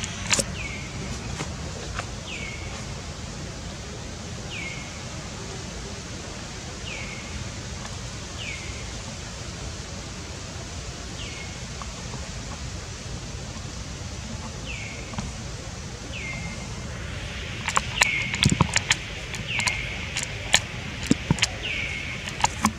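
A bird calling over and over, one short falling note every second or two, above a steady low background hum. In the last few seconds a quick run of sharp clicks and taps breaks in, louder than the calls.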